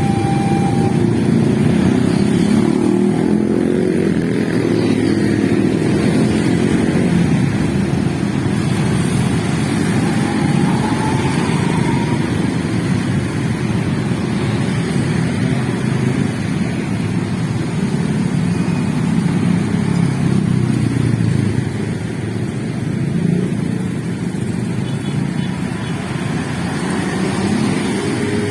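Steady road traffic, mostly motorcycles with some cars, engines running as they pass close by.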